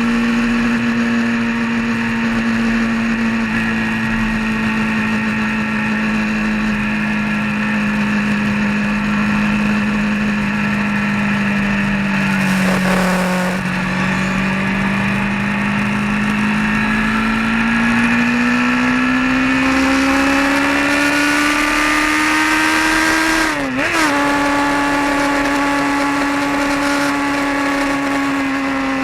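Vehicle engine running on the road. Its pitch slowly falls, with a short break about halfway through, then rises steadily as it accelerates. About three-quarters through the pitch dips sharply and recovers, then holds steady at a higher pitch.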